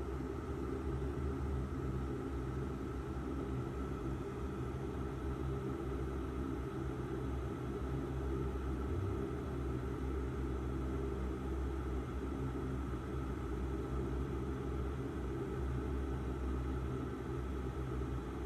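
Steady airliner cabin noise: an even low rumble and hum with a fainter hiss above it, unchanging throughout.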